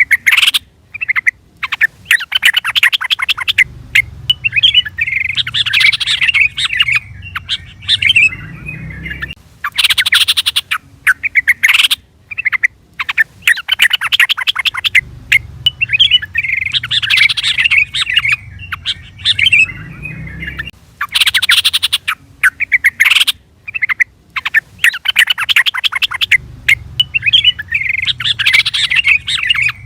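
Sooty-headed bulbul (trucukan) calling: quick bursts of harsh chatter alternating with a bubbling, warbled song. The same sequence repeats about every ten seconds, like a looped call recording.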